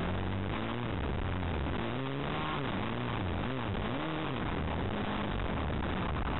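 Off-road motorcycle engine revving up and down in quick repeated swells as it is ridden over rough, muddy ground, over a constant rough noise on the on-bike microphone.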